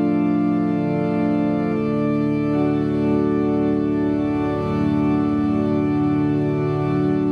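Instrumental music: slow, held organ chords, each changing to the next every two seconds or so.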